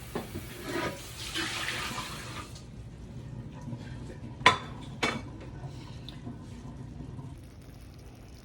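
Water running briefly from a kitchen tap and shutting off about two and a half seconds in, then two sharp knocks of cookware about half a second apart, over a low steady hum.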